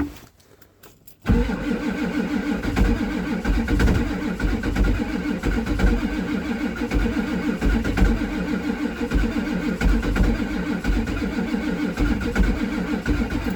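A click, then the starter cranking the 7.3 L IDI V8 diesel in hard cold. The crank is long, about twelve seconds, with an uneven low pulsing as the cylinders come up on compression, and it stops abruptly.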